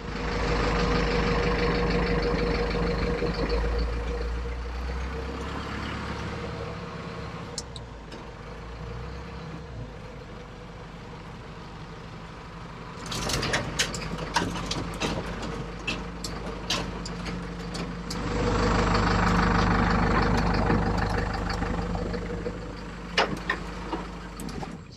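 Truck engine running steadily, louder near the start and again about three quarters of the way through. A run of sharp clicks and knocks comes just past the middle.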